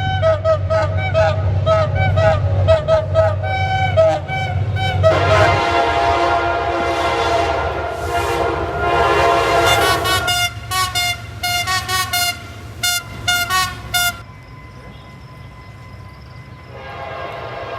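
Passenger train's horn blown in rapid short toots, then one long continuous blast, then another run of short toots that stop about 14 seconds in, over the low rumble of the train. After the horn stops, a fainter steady tone and rumble remain.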